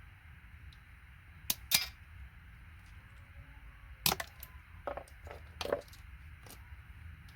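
Sharp, irregular clicks and snaps, about seven in all with the loudest a pair about a second and a half in, from hand tools breaking the plastic end pieces off gold-plated computer connectors.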